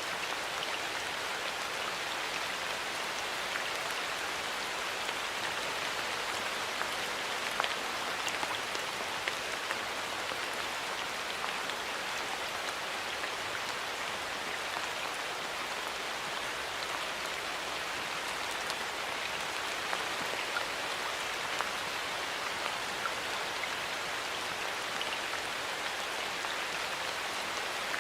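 Steady rain falling in a forest: an even hiss of rainfall with scattered individual drops ticking on leaves and surfaces.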